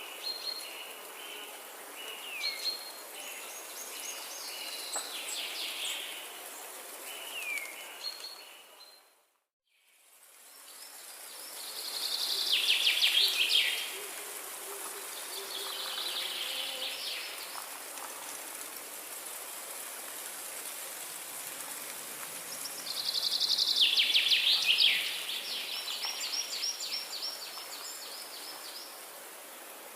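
Forest ambience: several songbirds singing and calling over a steady background hiss. The loudest moments are two fast, trilled song phrases, one a little under halfway through and one about four-fifths of the way through. About a third of the way in, the sound fades briefly to silence and fades back in.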